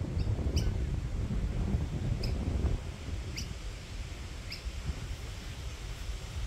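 Short, high single chirps from a small bird, repeated roughly once a second, over a constant low rumble of wind or handling noise on the microphone.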